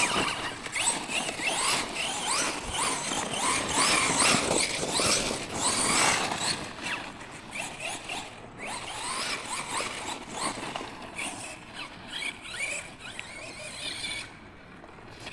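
Electric 1/10 monster truck's brushless motor and drivetrain whining, rising and falling in pitch again and again as the throttle is worked. It is louder in the first half and fades toward the end.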